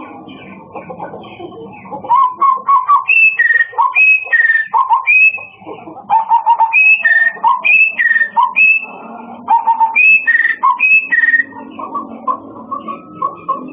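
Murai songbird singing: a long run of loud, quick whistled phrases, each a low note jumping to a high note that drops slightly, repeated over and over from about two seconds in until near the end.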